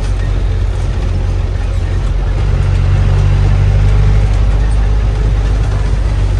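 A bus's diesel engine running steadily, a low drone that swells a little about three seconds in.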